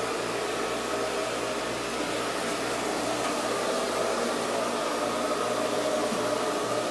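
Steady machinery hum with a fan-like whir, unchanging throughout, heard in a boat's engine room.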